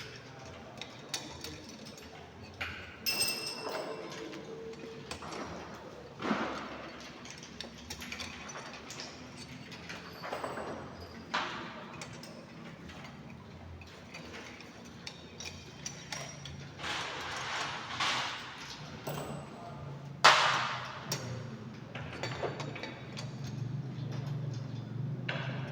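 Scattered metallic clanks and knocks of a wrench working a car's wheel nuts loose, one after another, over a low steady hum. The loudest knock comes about three-quarters of the way through.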